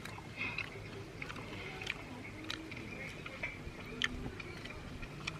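Close-up eating sounds: chewing and mouth clicks as food is bitten and chewed, with scattered short, sharp clicks.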